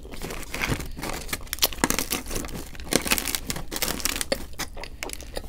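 Paper takeout food packaging crinkling and rustling as it is handled, a dense run of small crackles.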